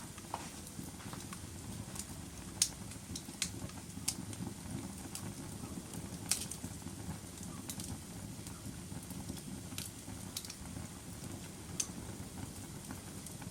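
Wood fire crackling in a fireplace: a steady low rumble of flames with irregular sharp pops and snaps, the strongest about two and a half seconds in.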